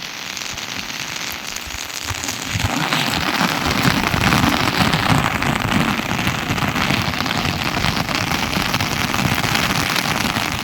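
Steady rain falling, getting heavier about two and a half seconds in.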